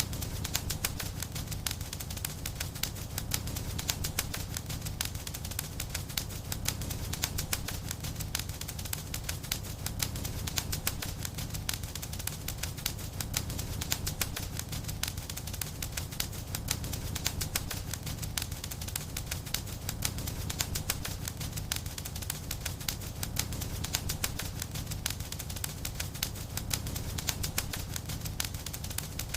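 Wood fire in a fireplace crackling, a dense, constant stream of small pops and snaps over a low steady rumble of the burning.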